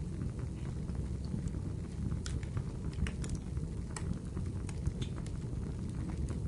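Wood fire burning in a fireplace: a steady low rumble of flames with scattered sharp crackles and pops from the burning wood, several in quick succession in the middle.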